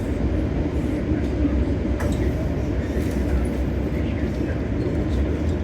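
Passenger train running, a steady low rumble of wheels and coach, with a faint click about two seconds in.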